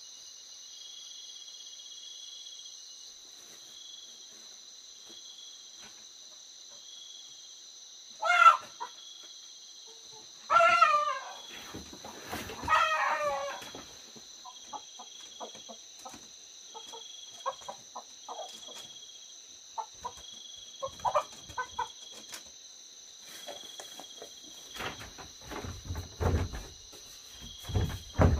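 A chicken squawking: three loud harsh calls about a third of the way in, then softer clucks. Insects keep up a steady high drone throughout, and a few low knocks come near the end.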